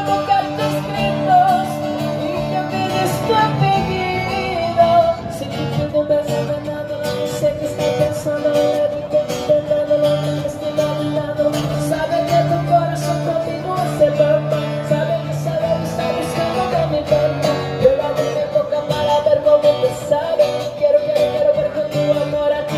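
Music: a woman singing a melody over guitar accompaniment.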